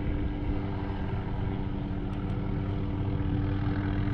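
Steady engine drone: a constant hum that holds one pitch over a low rumble.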